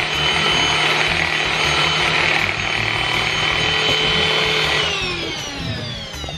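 Boomblack cordless stick vacuum's motor running flat out with a high, steady whine over rushing air. About five seconds in it is switched off, and the whine falls in pitch as the motor spins down.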